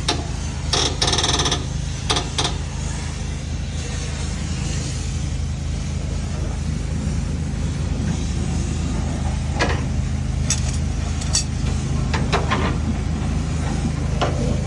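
An engine idling steadily with a low hum, with scattered metallic clicks and knocks of hand-tool work, a quick rattle of clicks about a second in and several taps in the last few seconds.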